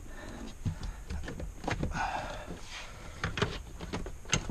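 Plastic interior trim and dash parts of a car being handled and tugged loose: scattered clicks and knocks, with a short rustling scrape about two seconds in.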